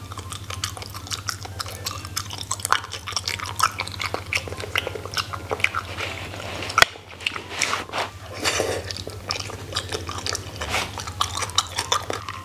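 Close-miked chewing of beef tripe from a self-heating hot pot: many small wet mouth clicks and smacks, with a single sharp tap about seven seconds in. A steady low hum runs underneath.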